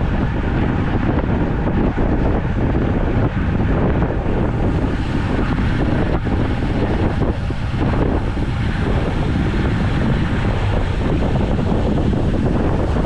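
Loud, steady wind noise buffeting the microphone of a camera on a moving road bike.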